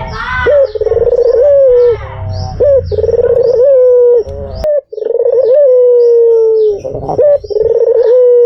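White (albino) puter, the domestic Barbary dove, cooing: a run of long, level coos, each opening with a quick upward flick. Faint high chirps of other birds run behind, and a click sounds about halfway through.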